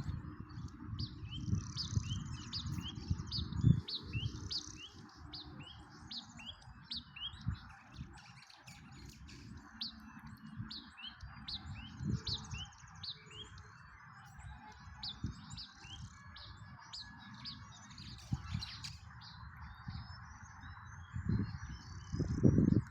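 Small songbirds chirping: many short, high notes with quick downward sweeps, repeated several times a second, over a steady faint hiss. Low rumbling thumps underneath are loudest at the start and again near the end.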